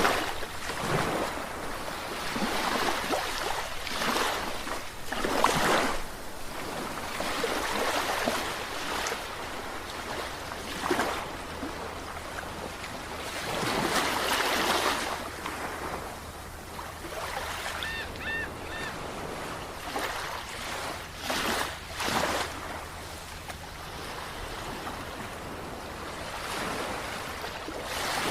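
Sea waves breaking and washing in, rising in irregular surges every few seconds. A brief high chirp sounds a few times about two-thirds of the way through.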